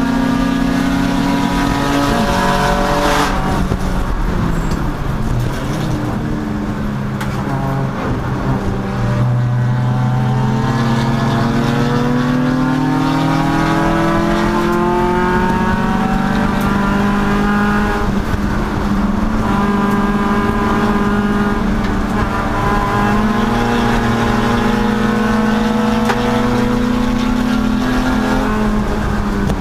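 Race car engine under hard running on a road course, its pitch dropping sharply about three seconds in, climbing through the revs again, holding steady for a long stretch and falling away near the end, as with braking, downshifting and accelerating through corners.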